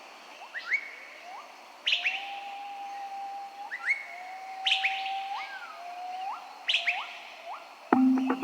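Birds singing: long, level whistled notes, each ending in a quick upward flick, mixed with sharp high chirps repeated every second or two. Music comes in just before the end.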